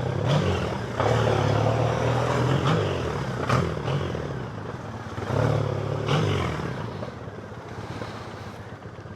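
Triumph Bonneville's parallel-twin engine running as the motorcycle rides along, with wind rush over it. The engine note shifts up and down a couple of times, then settles lower and quieter over the last few seconds.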